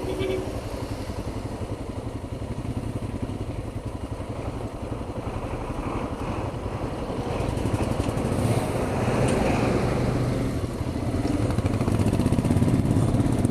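Royal Enfield Himalayan's single-cylinder engine running at low revs with a steady fast pulse, growing louder in the second half.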